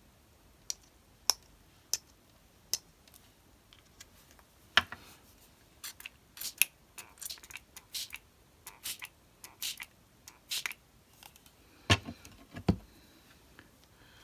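Brushos colour powder tapped out of its pot in a few sharp taps, then a quick run of water-spray-bottle squirts over the card, ending with two knocks as things are set down on the desk.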